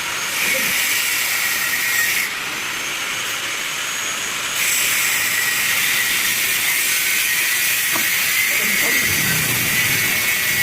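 A loud, steady hiss, strongest in the upper range. It dips in level about two seconds in and comes back louder about four and a half seconds in.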